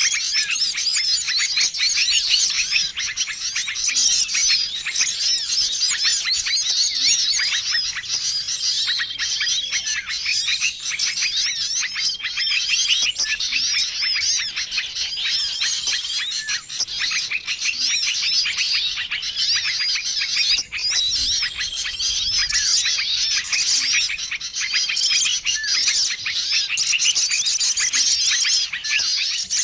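Many small songbirds chirping and chattering at once in a dense, unbroken chorus, played as a bird-lure call mix. A short level whistle recurs every few seconds.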